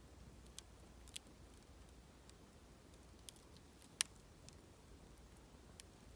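Mixed hardwood campfire crackling, with scattered sharp pops and ticks and one louder pop about four seconds in.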